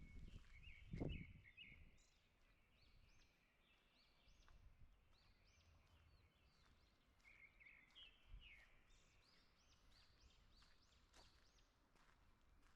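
Several songbirds chirping, many short high notes that rise and fall, overlapping throughout. A low thump about a second in.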